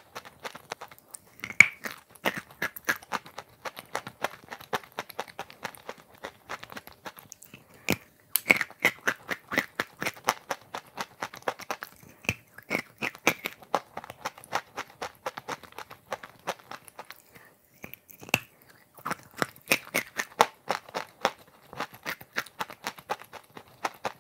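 Biting and chewing big chunks of chalk coated in clay paste and chocolate: dense, crisp crunching that goes on in spells, with two short lulls between bites.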